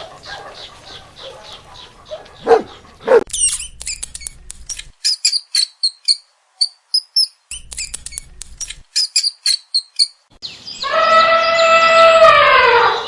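A dog panting rapidly, then barking twice, followed by a run of short high bird chirps; near the end a long, loud pitched call or tone sounds and drops in pitch as it ends.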